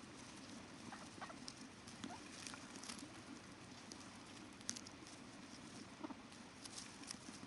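Faint river water flowing steadily, with scattered small ticks and splashes, one a little louder near the middle.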